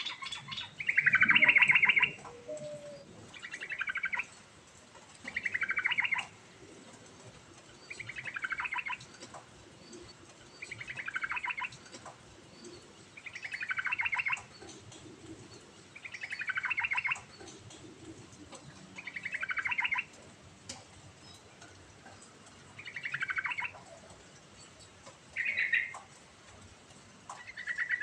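Yellow-vented bulbul (trucuk) singing the same short phrase over and over, about once every two and a half seconds. Each phrase is a quick run of notes dropping in pitch, and the first, about a second in, is the loudest.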